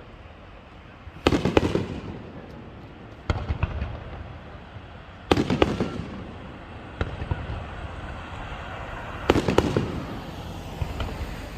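Aerial firework shells bursting: four main bangs about two seconds apart, the loudest near the middle and near the end, each followed by a spell of crackling, with smaller pops in between.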